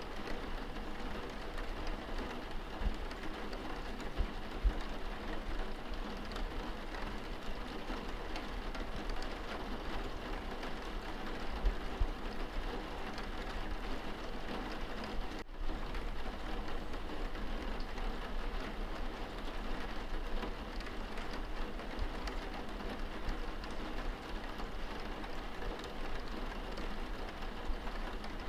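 Steady rain falling on window glass, heard from inside the room, with a few soft low thumps.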